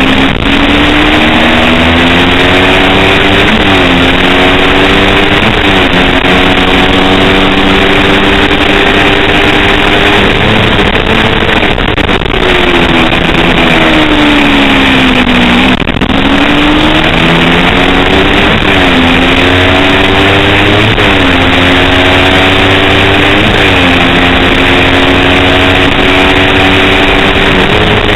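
Kawasaki Ninja 250 parallel-twin race engine at full throttle. It climbs in pitch through several quick upshifts, falls away in a long slide of dropping revs about halfway through as the bike slows, then climbs through the gears again.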